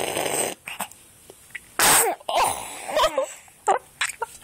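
A baby straining to make sounds: a breathy puff at the start and a louder, sneeze-like burst of breath about two seconds in. These are followed by short, bending coos and a few small mouth clicks near the end.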